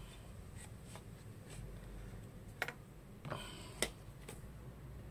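A few light clicks and taps as the plastic parts of a top-loading washing machine's suspension rod are handled and worked apart, with two sharper clicks in the second half.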